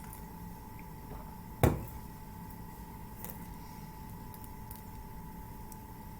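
Coffee mug set down with a single knock about a second and a half in, over a faint steady hum and a few light ticks.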